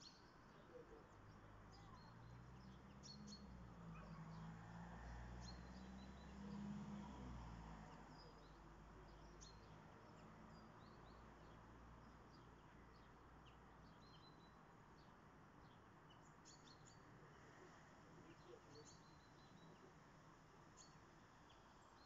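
Faint, scattered chirps of small songbirds. A low rumble swells and fades in the first half.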